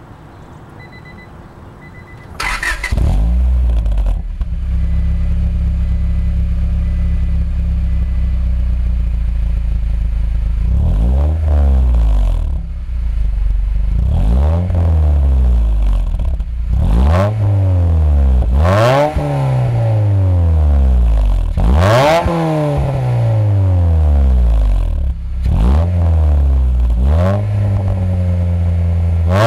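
1993 Honda Accord's F22A1 four-cylinder engine breathing through a 5zigen Pro Racer aftermarket exhaust: it starts about two seconds in and idles steadily. From about a third of the way in, it is blipped repeatedly, the pitch rising and falling back about every two to three seconds.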